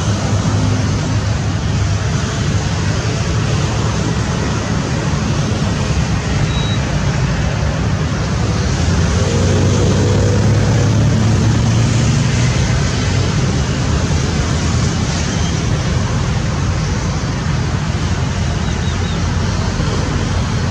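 Steady engine noise: a continuous low rumble under an even hiss, holding the same level throughout.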